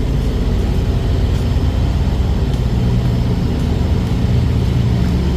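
Steady low rumble of a truck's engine and road noise while driving.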